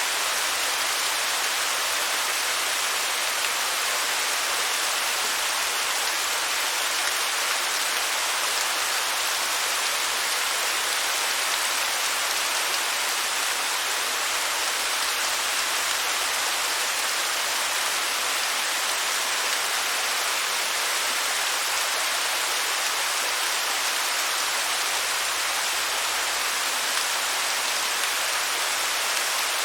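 Waterfall: a steady, even hiss of falling water with little low rumble, unchanging throughout.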